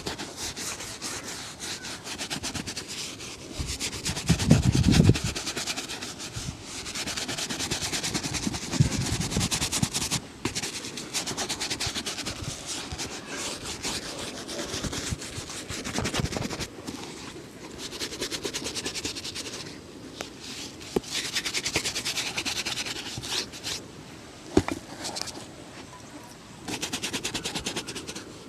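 Quick repeated rubbing strokes on a leather shoe during shoe shining and polishing, coming in spells with brief pauses. A dull low thump about five seconds in is the loudest moment.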